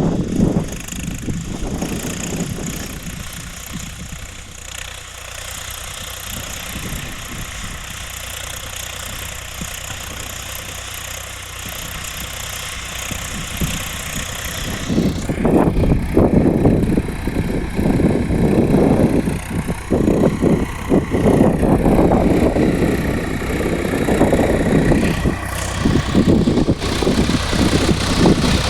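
Swaraj 742 XT tractor's diesel engine running steadily, growing louder and rougher about halfway through.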